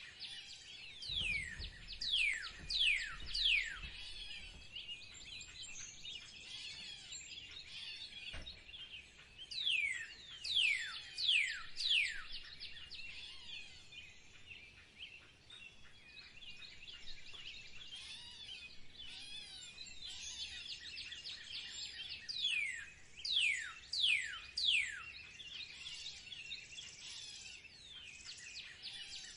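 Wild birds singing in a continuous twittering chorus. Loud runs of three or four falling whistled notes come again every several seconds over it.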